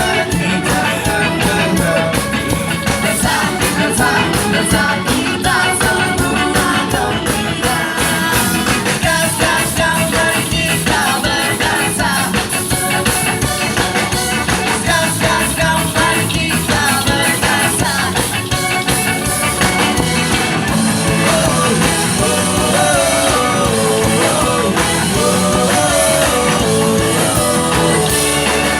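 A ska band playing with singing, loud and steady, with guitar and a wavering vocal or lead melody over the beat.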